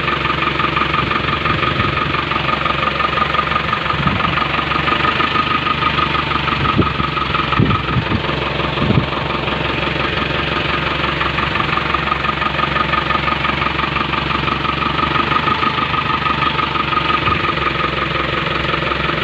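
Overhauled Tata BS6 engine idling steadily, with a few brief knocks about four to nine seconds in.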